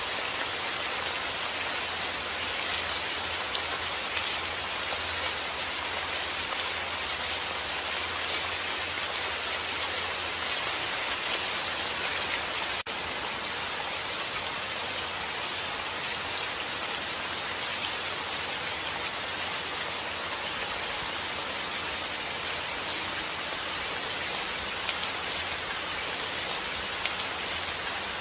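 Steady rain falling: a dense, even hiss with scattered drops pattering on a surface, with one momentary dip about halfway through.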